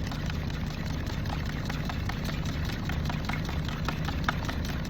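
A fork whisking eggs in a cup, a quick run of light clicks, over the steady low hum of an idling truck engine.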